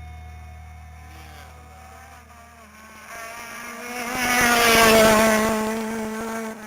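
Rally car engine at high revs approaching and passing, growing louder to a peak about five seconds in and then easing off, while the last notes of a music track fade out in the first few seconds.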